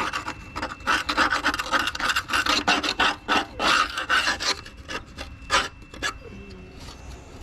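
Metal scraper raking packed grass off the steel underside of a lawn tractor mower deck: quick repeated scraping strokes, about three a second, that thin out after about five seconds.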